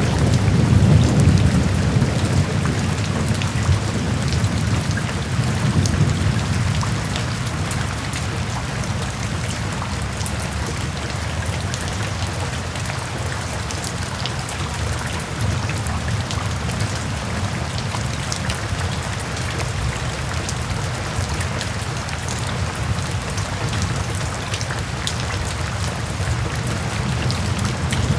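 Steady heavy rain pattering and hissing, with fine drop ticks over it. A low rumble of thunder is loudest at the start and fades away over the first several seconds.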